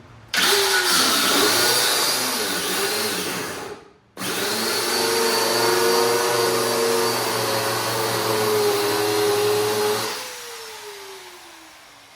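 Cut-off wheel cutting through a rusted shock absorber bolt, in two long runs with a short break between them, then spinning down with a falling whine near the end.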